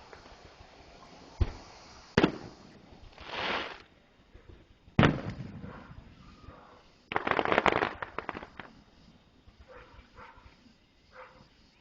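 Fireworks going off: sharp bangs about a second and a half and two seconds in, a rushing hiss, then a loud bang about five seconds in. A burst of rapid crackling follows from about seven to eight and a half seconds, with a few fainter pops near the end.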